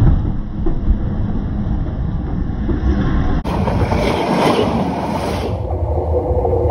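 Train hauled by a D19E diesel-electric locomotive rolling directly over the track at close range: a heavy, continuous rumble and rattle of wheels and running gear on the rails. The sound changes character abruptly twice.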